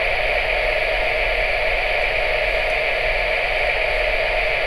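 A Trix 22115 Big Boy model locomotive's sound decoder playing a steady hissing effect, switched on as function F11, through the model's small speaker.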